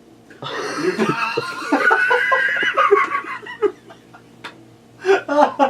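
People laughing: a long stretch of laughter with wavering pitch, then a second short burst of laughs near the end.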